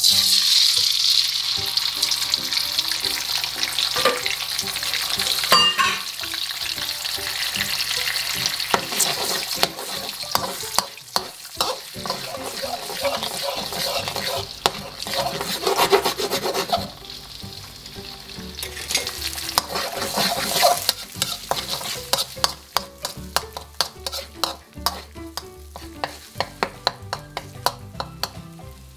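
Eggs poured into hot oil in a steel wok start sizzling loudly at once and keep frying while a metal wok spoon stirs and scrambles them. In the last several seconds the sizzle is quieter, and the spoon scrapes and knocks against the wok in quick, repeated strokes.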